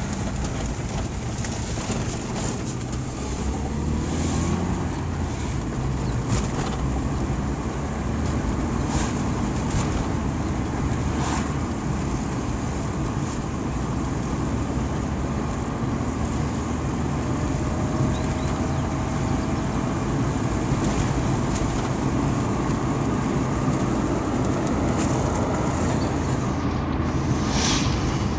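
Steady running noise of a vehicle in motion: a low, even hum under a constant rush, with scattered light clicks and knocks.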